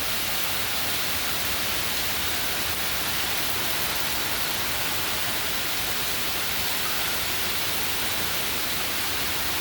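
Heavy hurricane rain pouring down in a steady, even hiss.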